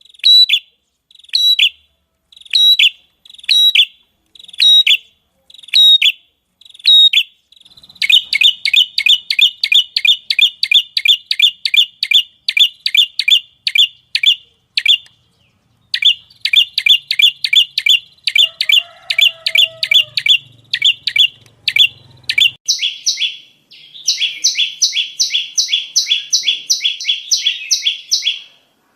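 Prinia (prenjak) song: loud, sharp repeated chirps, spaced at first about one and a half a second, then speeding up into fast rattling runs of several chirps a second with a short pause partway through.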